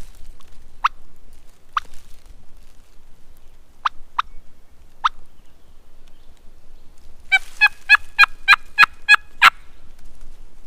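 Turkey call imitating a hen: five single sharp clucks spaced over the first five seconds, then, past the middle, a loud run of about nine yelps at roughly four a second, calling to a gobbler.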